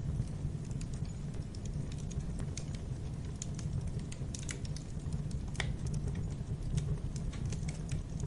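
Wood fire in a fireplace crackling: scattered sharp pops and clicks over a low steady rumble, with one louder pop a little past halfway.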